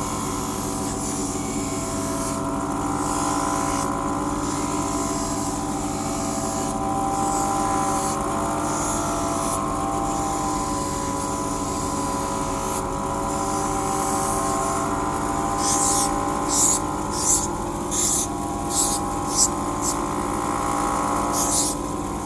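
Hand lens grinder's motor running with a steady whine that dips slightly in pitch under load, while a spectacle lens is pressed against the grinding wheel, giving a hiss that comes and goes. In the last several seconds the lens is worked in short strokes, about three every two seconds.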